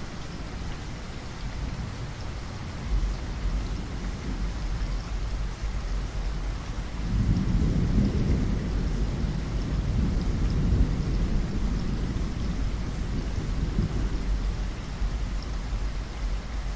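Steady rain falling, with a low roll of thunder that swells about halfway through and rumbles on for several seconds before easing back.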